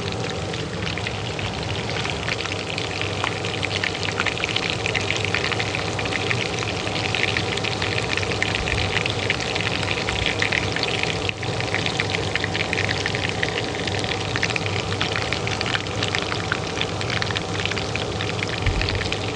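Oil frying in a pan, a dense steady crackle and sizzle, over the steady hum of a kitchen range hood fan. The sound dips briefly about eleven seconds in.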